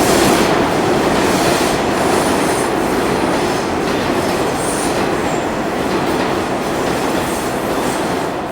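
NYC subway train of R62 cars on the 3 line running through the station, its wheels and motors making a loud, steady rumble that slowly fades, with a few faint high wheel squeals.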